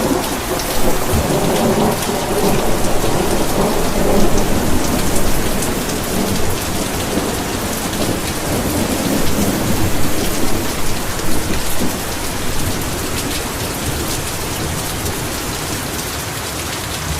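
Heavy rain pouring steadily, with a long low roll of thunder under it that fades away about two-thirds of the way through.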